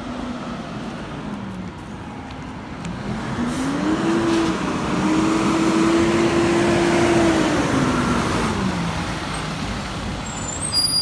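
A large vehicle's engine driving past. Its note climbs about three seconds in, holds while the sound is loudest, then falls away near the end.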